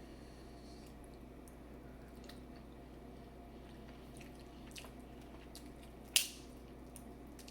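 Eating seafood boil: faint wet chewing and small squishy clicks, with one sharp snap about six seconds in.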